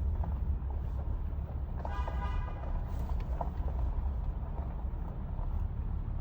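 Truck driving, a steady low rumble, with a short higher-pitched tone about two seconds in.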